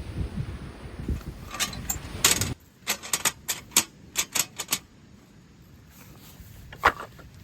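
Wind and surf noise on the microphone, cut off abruptly. Then a quick run of about eight sharp clicks or taps, with one more louder click a couple of seconds later.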